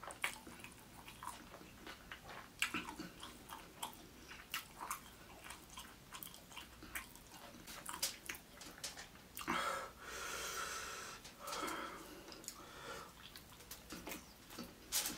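Close-miked ASMR eating of fried rice by hand: wet chewing, lip smacks and mouth clicks. A long breathy exhale comes about ten seconds in.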